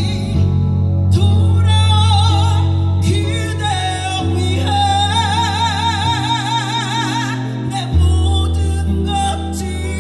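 Live band music with a wordless female vocal ad-lib over it; about halfway through, the voice holds one long note with a wide vibrato.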